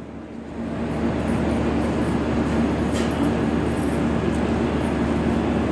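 Steady rumble and hum of a passenger train beside the platform, swelling within the first second and then holding steady.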